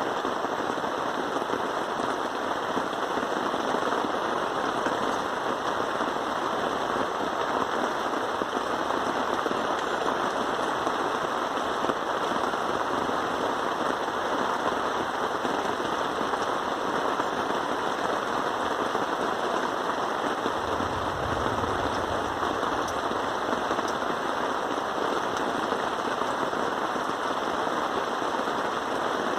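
Steady heavy rain pattering on a surface, with a brief low rumble about two-thirds of the way through.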